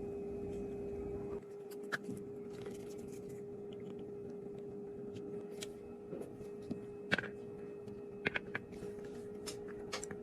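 Makeup tools and containers being handled: scattered light clicks and taps over a steady low hum. A low rumble stops about a second and a half in.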